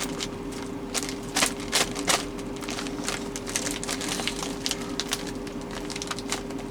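Plastic food packaging and a Ziploc bag being handled, with irregular crinkles and clicks over a steady low hum.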